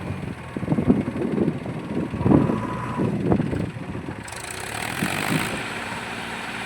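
Diesel engines of a JCB backhoe loader and a tractor running, uneven and surging for the first few seconds, then settling into a steady drone. A hiss comes in about four seconds in.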